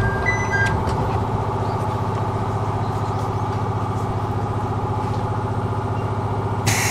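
Chichibu Railway electric train heard from the driver's cab: a steady mechanical hum with a fast, even pulsing. A sudden hiss starts just before the end.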